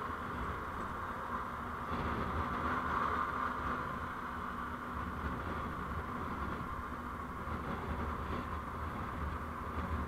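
Steady road noise of a moving vehicle: a low rumble with tyre and engine hum, swelling slightly about two seconds in and again near the end.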